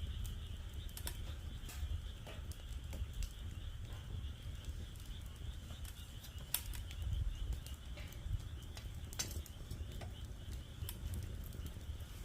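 Wood fire crackling in a fire pit with irregular sharp pops, over a steady chorus of calling frogs and a low rumble.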